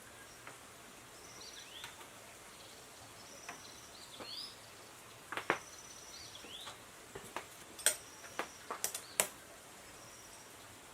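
Faint bird chirps: short, high calls, some curving downward, over a steady low hiss. A handful of sharp clicks or taps come in the second half and are the loudest sounds.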